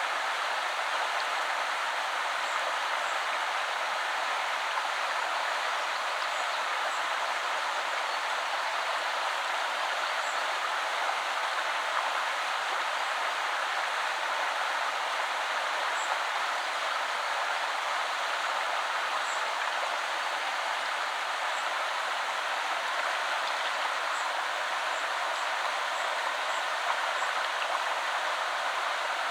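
A woodland river flowing, a steady, even rushing of water. A few faint, brief high chirps are scattered through it.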